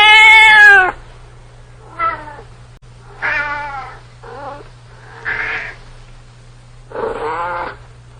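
A cat meowing over and over, about six meows. The first, right at the start, is the loudest and longest, and the rest are shorter and fainter.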